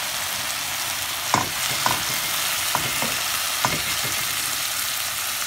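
Onion, garlic and canned tuna sizzling as they sauté in oil in a pan. A wooden spatula stirs them, knocking against the pan about five times.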